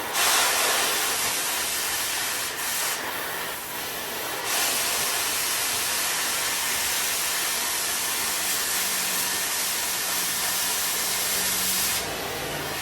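Cutting torch hissing steadily as it cuts through the steel truck frame, dipping briefly a few seconds in and cutting off sharply near the end.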